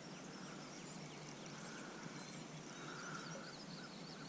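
Faint birds chirping and calling over a quiet outdoor hush: many short, high chirps and sweeping notes.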